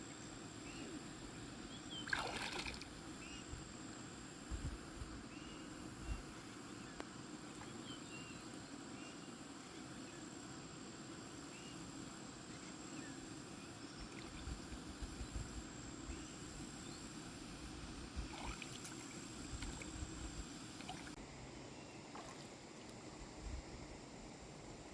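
Water sloshing and splashing faintly, broken by a few short knocks, the strongest about two seconds in. A steady high thin whine runs underneath and stops near the end.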